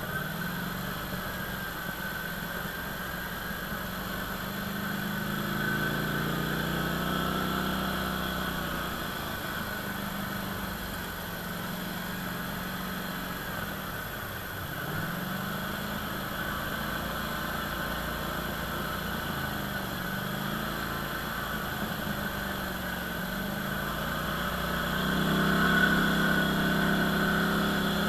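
ATV engine running on the trail under changing throttle, its pitch rising and falling several times and climbing loudest near the end.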